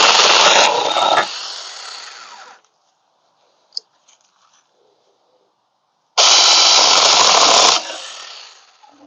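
21V battery-powered 6-inch mini chainsaw running in two short bursts on the trigger, one already going at the start and a second about six seconds in. Each burst cuts off sharply and then fades as the chain spins down.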